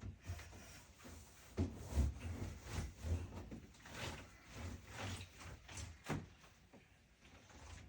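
Irregular knocks, scrapes and thumps of a refrigerator's trays and drawers being handled and slid while it is cleaned out.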